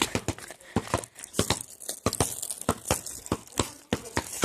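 Campfire crackling: irregular sharp snaps and pops, several a second.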